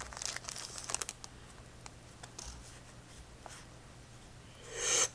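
Foil trading-card booster pack wrapper crinkling and tearing open in the first second, followed by a few faint clicks, then a short rushing swell of noise near the end.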